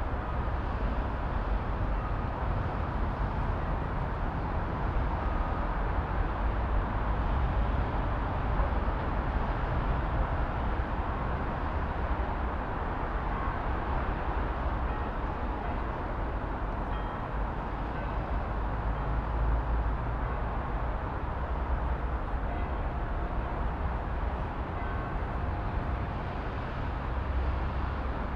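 City traffic ambience: a steady rumble of vehicles, without pause.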